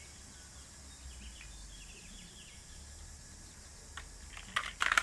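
Faint background of small creatures chirping over a low hum, with a few sharp clicks and rattles near the end, as of a plastic toy vehicle being handled.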